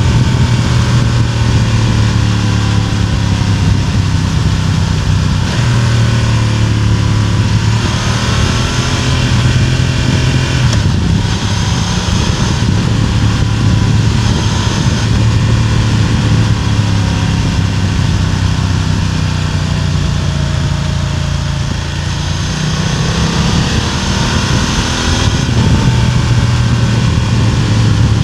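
BMW F900R parallel-twin engine heard through its exhaust while riding, close up from above the exhaust; the engine note rises and falls several times with throttle and gear changes.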